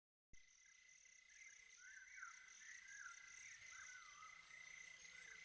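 Faint night ambience of insects and frogs: a high trill pulsing a few times a second, a steady high whine, and short warbling chirps. It starts suddenly out of silence.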